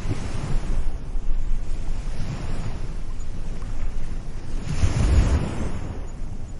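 Ocean waves washing onto a beach: a continuous hiss of surf that swells and falls, with the largest wash about five seconds in, over a low rumble.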